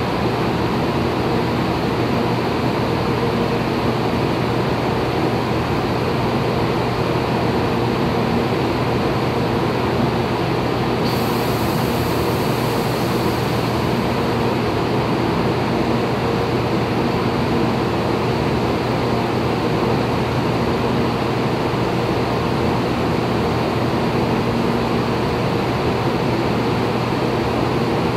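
Taiwan High Speed Rail train standing at an underground platform: a steady hum and rush of air with a low, even drone.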